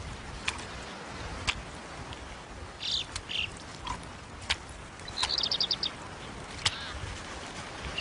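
Short high bird chirps twice about three seconds in, then a quick high trill of about eight notes a little after five seconds, with a few sharp clicks over a steady hiss.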